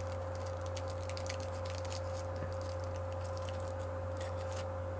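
Steady background hum with a constant higher tone over it, and faint scattered light clicks.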